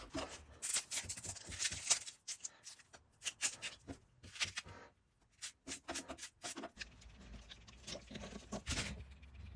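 Irregular rustling, clicks and light knocks of hands handling cooking things, with short stretches of hiss and a brief lull about halfway through.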